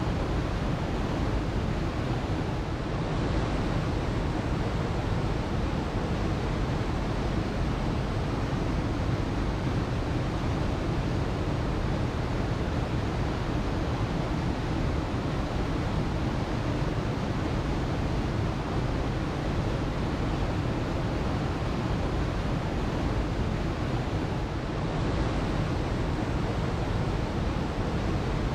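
Waterfall: water falling and splashing in a steady, full rush with a deep rumble.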